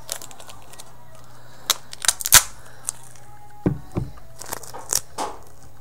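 Handling noise from duct tape and a mouse trap: a series of sharp clicks and knocks, the loudest about two and a half seconds in, over a steady low hum.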